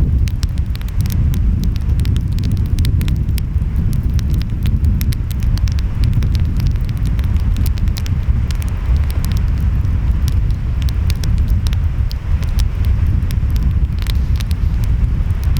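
Wood fire crackling, with many short sharp pops scattered throughout, over a steady low rumble of ocean waves and wind.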